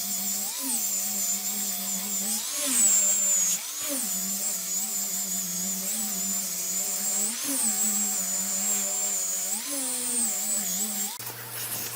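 Electric power tool motor running steadily on wood, its pitch wavering up and down every couple of seconds as the load changes, with a high whine above it. It stops about eleven seconds in and a lower hum is left.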